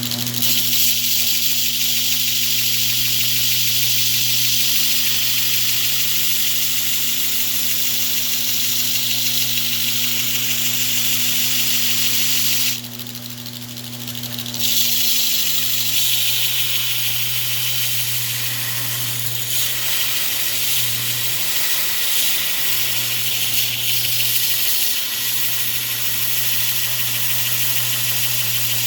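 A 2x72 belt grinder running with a steady motor hum while a piece of steel is held against the moving belt, giving a loud, even grinding hiss as an edge is sharpened. About 13 seconds in, the steel comes off the belt for about two seconds, leaving mostly the hum, then the grinding resumes.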